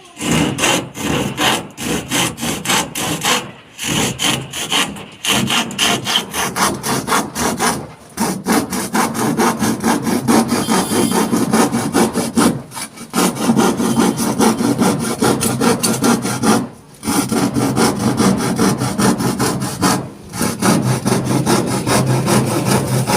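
Handsaw cutting through wood, a fast, steady back-and-forth of about three strokes a second, in runs of a few seconds broken by brief pauses.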